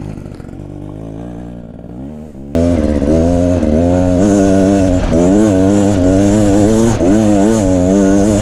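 Gas dirt bike engine running low and quiet at first, then about two and a half seconds in it comes in loud under throttle, its pitch rising and falling in repeated surges as the throttle is worked.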